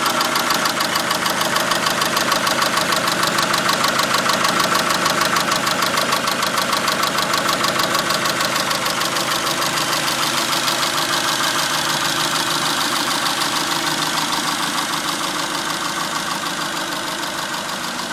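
A 2002 Dodge Neon's 2.0L four-cylinder engine idling steadily with a rapid, even ticking. The owner cannot tell whether the tick comes from the valvetrain, an exhaust leak or something worse. It grows slightly fainter toward the end.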